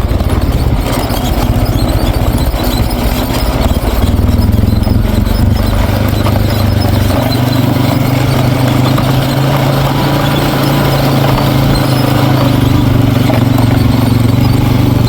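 Four-wheeler (ATV) engine running steadily at low speed as it is ridden, with a slight change in its note about halfway through.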